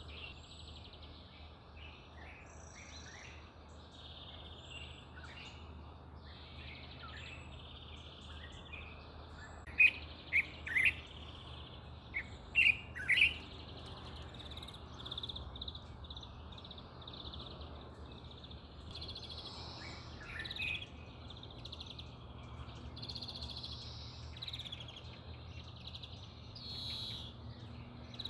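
Birds chirping over a steady high hiss, with a cluster of six loud, short chirps near the middle.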